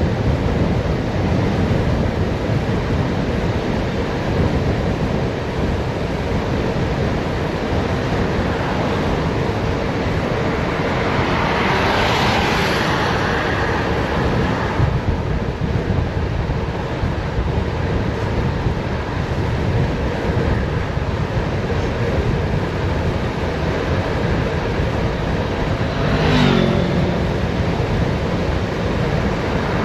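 Steady rush of wind over the microphone of a bicycle descending a mountain road at speed. Two louder swells pass through it, one about halfway and one near the end that falls in pitch.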